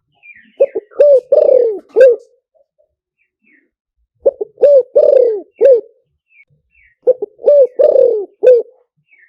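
Spotted dove cooing: three phrases spaced about three seconds apart, each a quick run of coos with one longer, falling note in the middle. Faint high chirps of small birds sound between the phrases.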